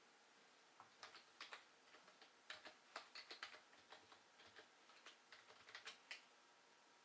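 Faint, irregular clicking of computer keyboard keys being typed, starting about a second in and stopping near the end.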